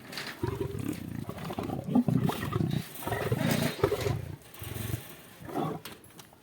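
Lions growling: a run of rough, throaty growls, one after another, with a last short one near the end.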